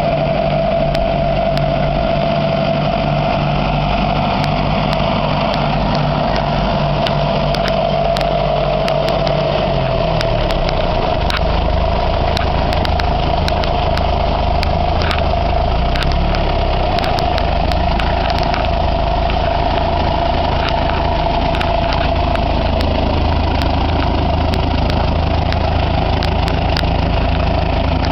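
Ferguson TEF-20 tractor's four-cylinder diesel engine running steadily, with a steady whining tone over it. About ten seconds in, the engine note drops lower.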